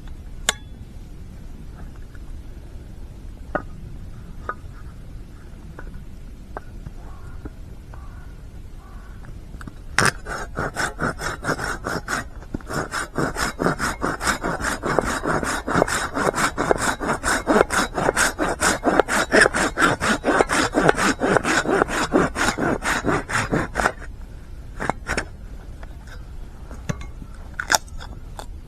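Silky Bigboy 2000 folding saw cutting through wood: a run of quick, steady back-and-forth strokes starting about ten seconds in and lasting about fourteen seconds. A few light knocks come before and after.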